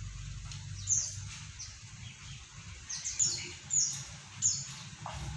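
A tame kaso-kaso bird giving short, high chirps that each sweep downward in pitch, about five of them at irregular intervals, over a low steady rumble.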